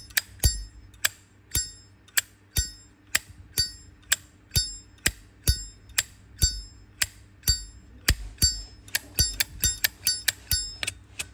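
A 1993 Zippo lighter's hinged lid flicked open and snapped shut over and over: a sharp metallic clink about twice a second, each with a short ringing tail, coming a little faster near the end.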